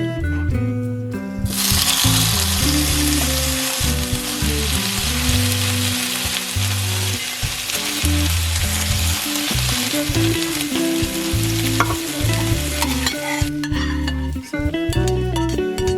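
Food sizzling as it fries in hot oil in a pan, starting about a second and a half in and cutting off a couple of seconds before the end, over light background music.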